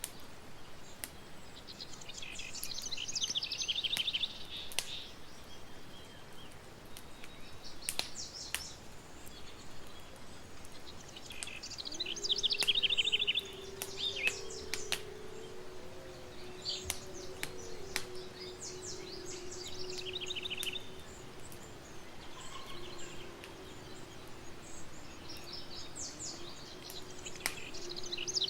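Campfire crackling with sharp scattered pops while songbirds sing short trilling phrases every few seconds. From about twelve seconds in, a faint wavering low tone runs underneath.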